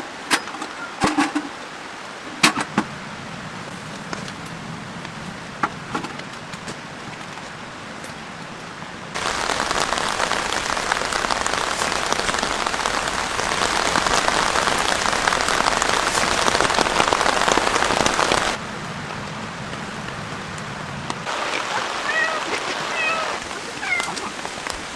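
Rain falling steadily, with a few sharp cracks or taps in the first seconds. About nine seconds in the rain turns much louder and heavier, then drops back suddenly some nine seconds later. A few short high chirping calls near the end.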